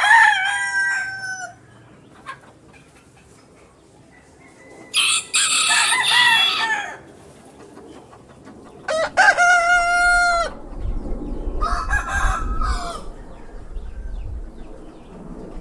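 Roosters crowing: four separate cock-a-doodle-doo calls, each lasting one to two seconds, the first already sounding at the start and the others coming a few seconds apart. A low rumble runs under the second half.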